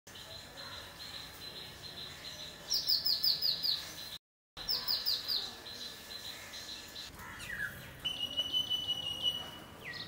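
Small birds chirping: quick runs of falling chirps about three and five seconds in, and more calls near the end, over a steady high-pitched ring. All sound drops out briefly just after four seconds.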